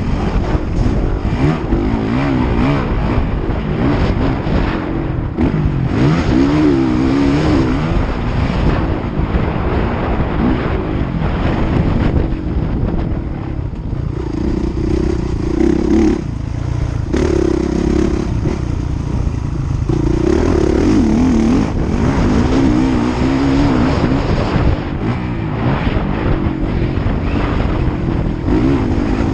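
Motocross bikes running on the track, their engines revving up and down as they ride.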